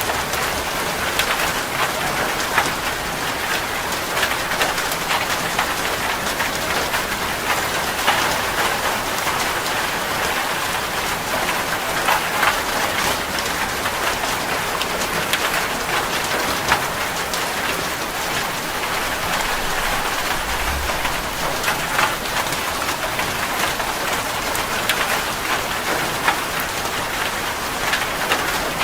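Steady rain falling on a surface, with a dense patter of individual drop strikes. A brief low rumble comes about 21 seconds in.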